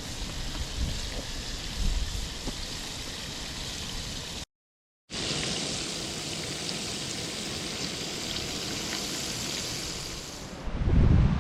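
Battered chicken fried steak fingers frying hard in a cast iron pan: a steady, vigorous sizzle, cut off for half a second about four and a half seconds in, then sizzling on. Near the end, wind rumble on the microphone takes over.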